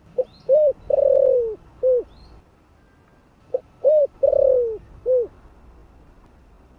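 Spotted dove cooing: two phrases about three seconds apart, each of four notes, the third long and falling in pitch. A small bird chirps faintly in the background.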